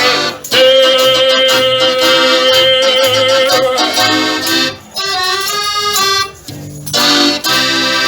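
Live folk music led by an accordion, the last notes of a comic song: a long held note, a brief pause, then a short phrase and accordion chords starting up again.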